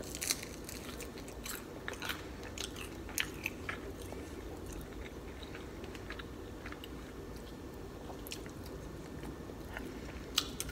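A person biting and chewing crispy air-fried chicken wing with mouth clicks and small crunches. The clicks are thick in the first few seconds and then thin out to a slow chew.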